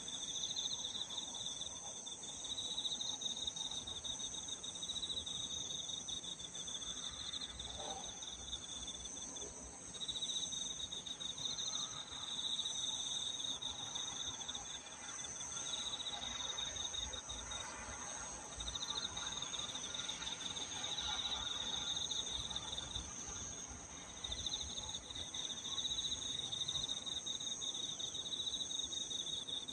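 Chorus of crickets and other singing insects: one high pulsing trill that breaks off and starts again every few seconds, over a steady, higher continuous ringing from other insects.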